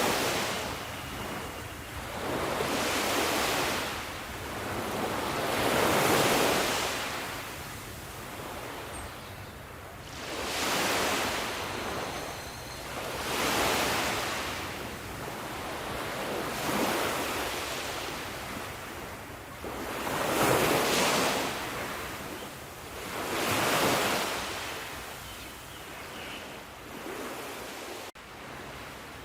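Sea waves breaking and washing in, about seven surges that swell and fade every three to four seconds.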